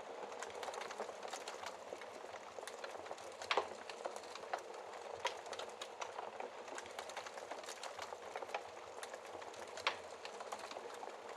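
Wood fire burning in a fireplace, with a steady hiss and irregular crackles. Two louder pops stand out, one about a third of the way in and one near the end.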